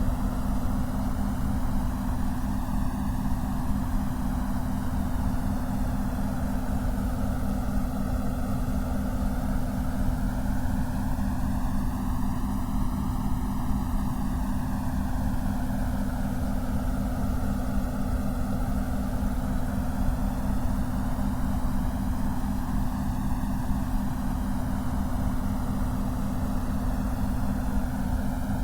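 Steady synthetic noise, heavy at the low end with a steady low hum, and a slow sweeping whoosh as the upper range rises and falls over several seconds.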